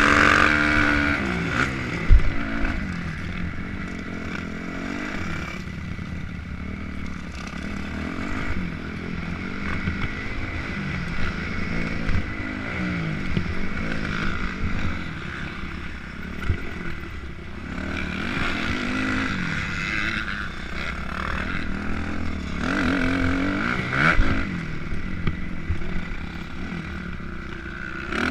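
Motocross dirt bike engine revving up and falling back again and again as the bike is ridden, with a sharp knock about two seconds in and another near the end.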